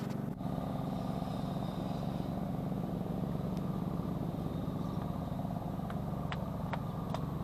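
Small motorcycle engine running steadily, with a few faint clicks near the end.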